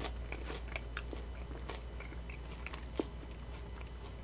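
A person chewing a mouthful of battered, fried bacon, with small crunching clicks and one sharper crunch about three seconds in, over a low steady hum.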